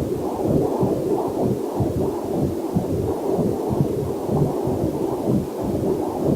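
Heartbeat picked up by a fetal Doppler heart monitor: a fast, even pulsing, with a faint waterfall hiss mixed in beneath it.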